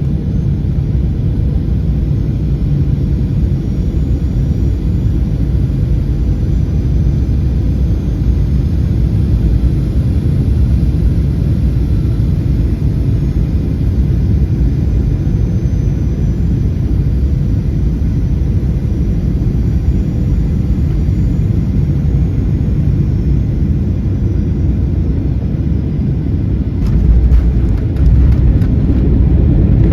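Cabin noise of a Boeing 737-800 with CFM56 engines: a steady low rumble from the engines and airframe. About 27 s in it grows louder, with a quick run of knocks.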